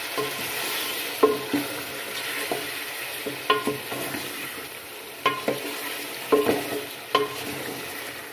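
Chicken pieces sizzling in hot oil with spices in a steel pot while a wooden spoon stirs them. The spoon knocks against the pot about ten times at uneven intervals, and each knock rings briefly.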